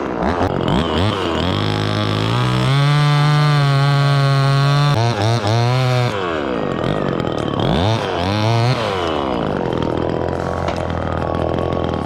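Two-stroke chainsaw revving up and down in short blips, then held at full throttle for about three seconds near the middle, with a brief dip, as it cuts into black maple wood. It goes back to blipping up and down after that.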